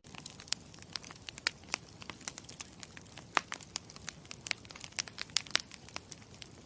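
Campfire crackling: irregular sharp pops and snaps over a low, steady hiss.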